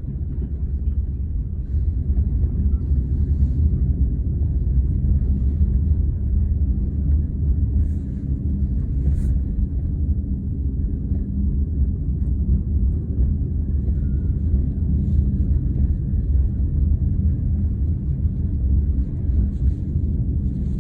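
Steady low rumble of a vehicle running, with a faint even hum under it.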